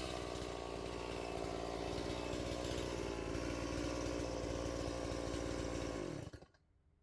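Chainsaw engine running steadily, then shut off a little over six seconds in, winding down quickly to silence.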